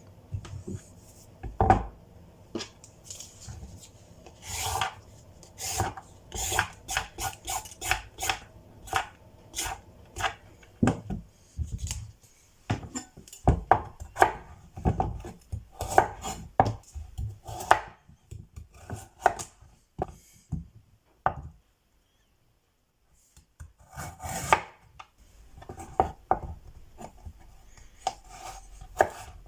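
Kitchen knife chopping on a cutting board in uneven strokes, with a brief break about three-quarters of the way through.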